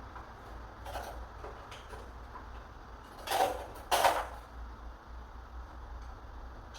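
Knocks and clicks of work on a door's hardware: a faint knock about a second in and two louder ones a little over three and four seconds in, over a steady low hum.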